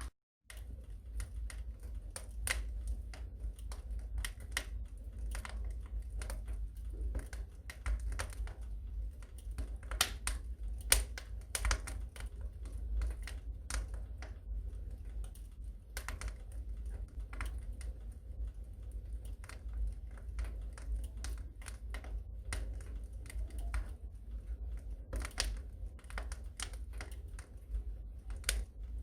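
Wood fire in a fireplace crackling, with irregular sharp pops and snaps over a steady low rumble of the flames; one louder pop about 11 seconds in.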